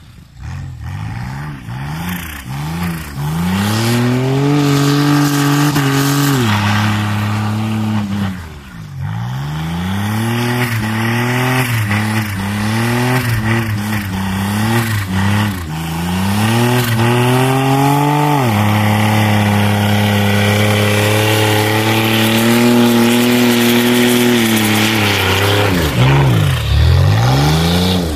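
Turbocharged Holden VX Commodore V6, fitted with a Holset H1C turbo running about 5 psi of boost, revving hard in repeated rising pulls that drop back between them. The revs fall right away about nine seconds in and again near the end before picking up.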